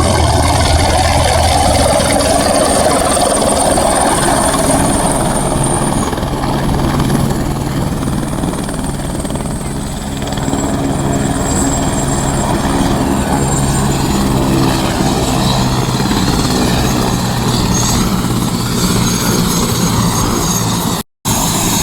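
Helicopter running, loud and steady, with rotor and engine noise under a high turbine whine that slides slightly lower in pitch partway through. The sound cuts out for a moment near the end.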